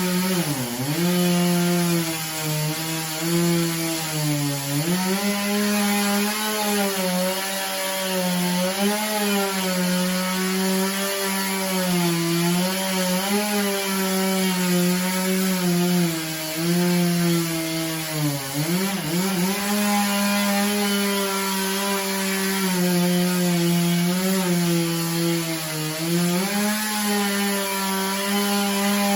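Two-stroke chainsaw at high revs bucking a hickory log. Its pitch sags briefly about four times as the chain bogs in the wood. The chain is dull and loose, as the cutter said of this saw after the cut.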